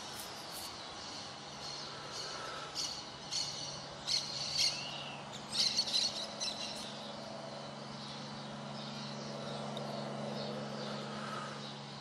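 Birds calling in a run of short, high chirps and squawks, loudest around the middle, over a steady hiss of light rain and a low steady hum.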